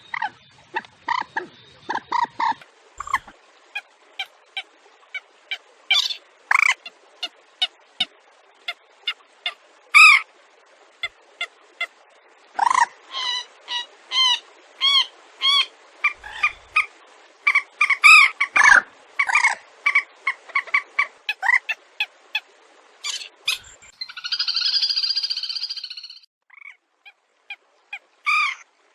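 Wetland birds calling: a long series of short, sharp calls, some in quick runs of repeated notes, with one longer buzzy call near the end.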